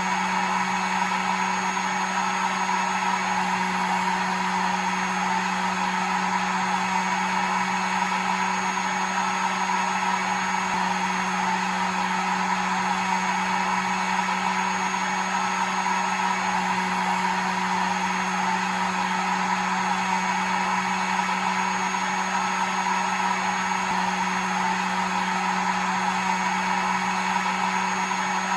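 Hair dryer running steadily: a constant blowing hiss over an even motor hum and a faint high whine, with no change in pitch or level.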